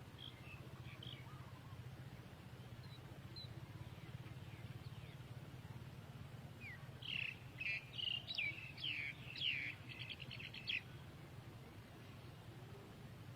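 Small bird chirping in a quick run of high notes ending in a short trill, lasting about four seconds past the middle, with a few faint chirps near the start, over a steady low hum.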